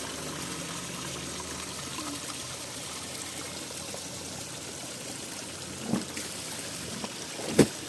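Spring water trickling and running steadily, with two sudden thumps near the end, the second the loudest.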